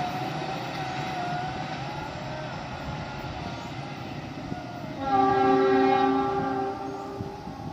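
A train running with a steady rumble, then a locomotive horn sounding once, about two and a half seconds long, starting about five seconds in.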